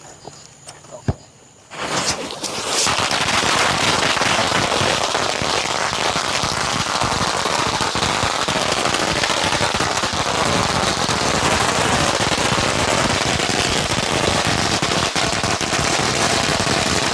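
A string of firecrackers going off: after a single click, a long, unbroken run of rapid, loud cracks starts about two seconds in and keeps going.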